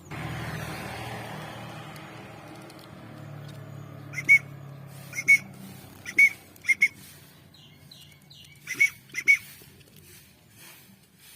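A young songbird being hand-fed gives about seven short, sharp chirps, singly and in quick pairs, after a brief rustle of handling at the start.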